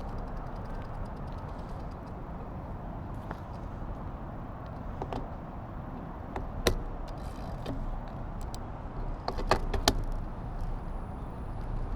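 Steady wind and road rumble from riding, with a sharp click about six and a half seconds in and a quick cluster of clicks near ten seconds.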